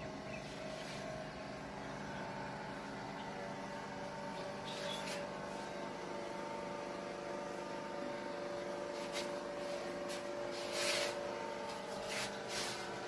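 Steady machine hum with a few constant whining tones, broken by four or five brief hissing rushes.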